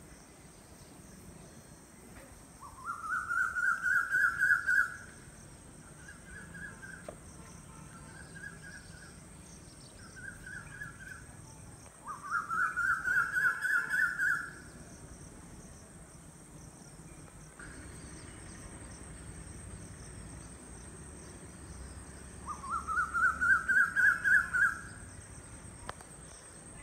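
A bird calling three times, each call a quick run of about eight loud notes that climb in pitch and then level off, with a few softer, shorter runs of notes between the first two calls.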